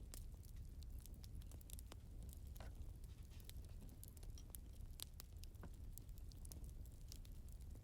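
Wood fire burning in a fireplace: faint, irregular crackles and pops of burning logs over a low steady rumble.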